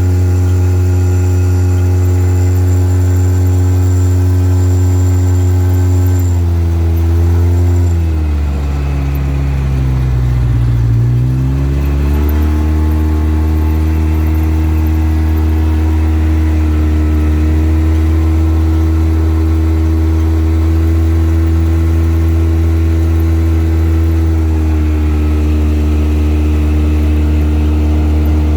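Vehicle engine droning steadily while driving. About six seconds in its pitch sinks, bottoms out around ten seconds, then climbs back and holds steady.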